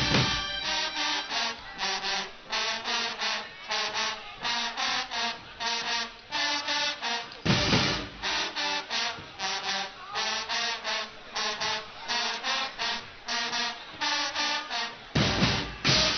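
Guggenmusik brass band playing a passage of short, rapid staccato chords with the drums dropped out, one loud full-band hit about halfway through, then the drums and full band come back in shortly before the end.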